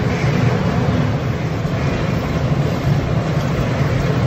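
Steady low rumble with an even hiss above it, unchanging and with no distinct knocks or events.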